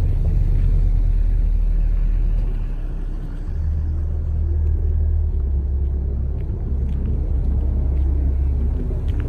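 Car running, with a steady low rumble that dips briefly about three seconds in.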